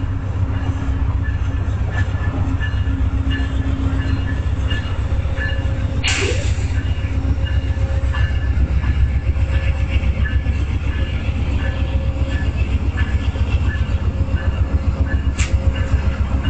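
A train passing slowly on the tracks: a steady low rumble with faint wheel clicks about twice a second. There is a short sharp burst of noise about six seconds in and a smaller click near the end.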